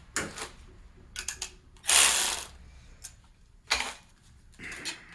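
Ratchet clicking in a series of short, uneven strokes, the longest and loudest about two seconds in, as a piston ring compressor is tightened around a piston to squeeze its new rings.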